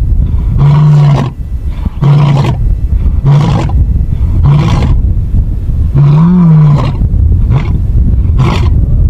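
Lion roaring: a loud bout of deep calls, the first ones long and the following ones shorter, with a fresh long roar about six seconds in starting the series again.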